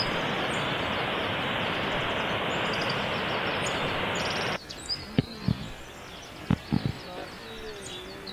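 A stream rushing over rocks in small rapids, a steady loud rush that cuts off abruptly a little past halfway. Afterwards it is quieter, with a few short thumps and faint bird chirps.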